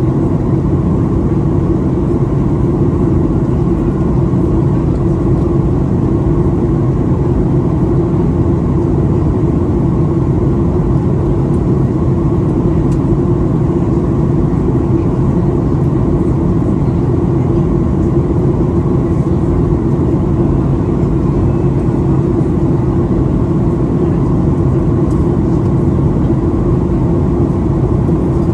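Steady cabin noise inside a Boeing 737-800 during descent: the drone of its CFM56-7B turbofan engines mixed with airflow over the fuselage, with a constant low hum.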